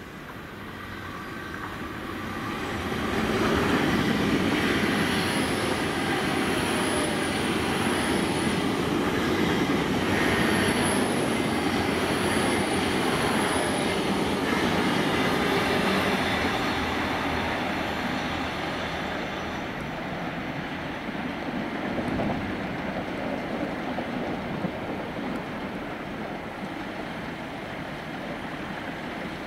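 A train passing: the sound builds over the first few seconds, holds loud for about twelve seconds, then slowly dies away. Two sets of three faint, high-pitched squeals that fall in pitch come early in the pass.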